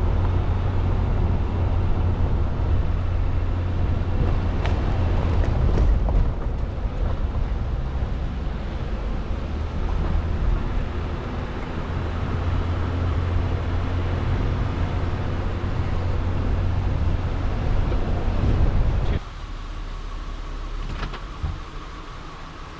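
Steady road and engine rumble of a moving car, heard as a low drone with tyre noise above it; about nineteen seconds in it drops suddenly to a much quieter hum.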